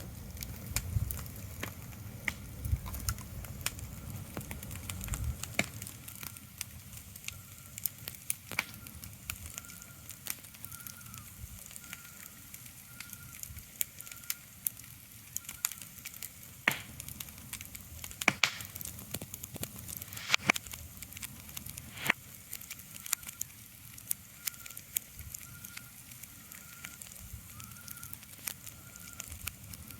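Irregular crackles and sharp pops over a faint steady hiss, with a low rumble in the first few seconds.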